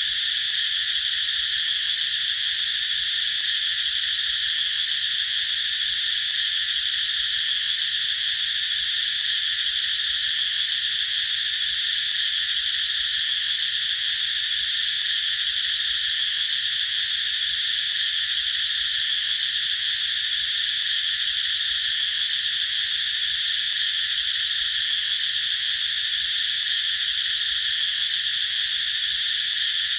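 A chorus of cicadas singing, a continuous shrill buzz that holds steady without pause.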